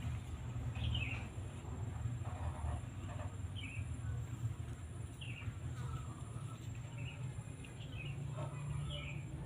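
A small bird chirping, short high falling notes repeated every second or two, over a steady low rumble.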